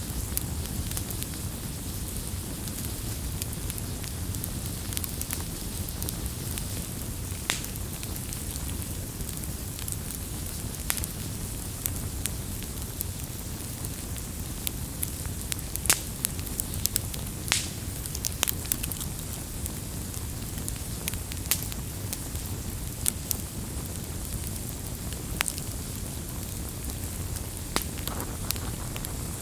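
Wood fire crackling: irregular sharp pops and snaps over a steady rush of burning, with a louder pop about halfway through.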